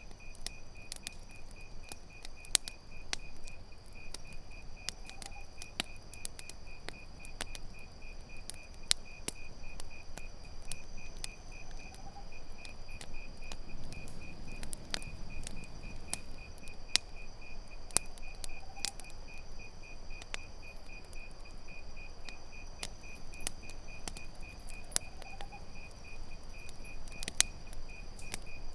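Campfire crackling with sharp, irregular pops, over a steady trill of crickets chirping in rapid pulses and a higher insect drone. A faint short call recurs about every seven seconds.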